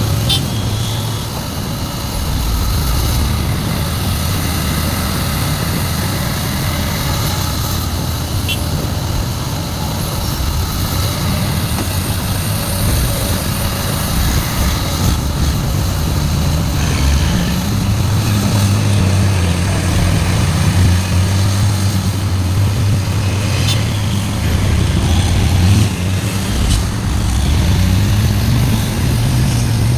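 Heavy diesel engines of a large excavator and a dump truck running steadily. A low engine hum grows stronger and steadier from about halfway through, with a few faint ticks.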